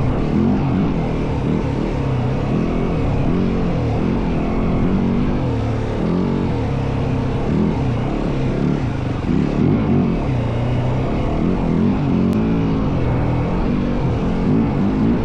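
Yamaha WR450F single-cylinder four-stroke dirt bike engine being ridden, its revs rising and falling again and again as the throttle is worked, over a steady rushing hiss.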